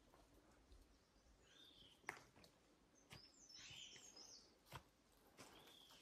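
Near silence with faint bird calls: a few short chirping and warbling phrases, and a couple of faint clicks.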